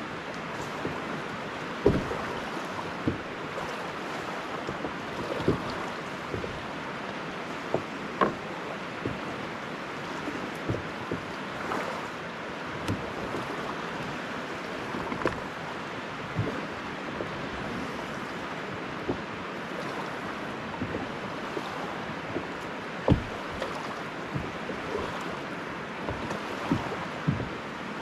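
Steady rush of flowing river water, with irregular sharp knocks and clicks every second or two.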